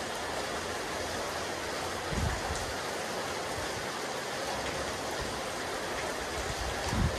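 Steady rain falling on a rooftop terrace, a dense, even hiss. Two brief low thumps stand out, about two seconds in and near the end.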